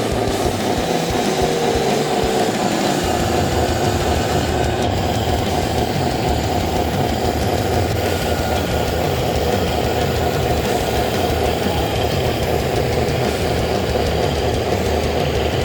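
Steady engine-like running sound from remote-control construction models, deepening about three seconds in.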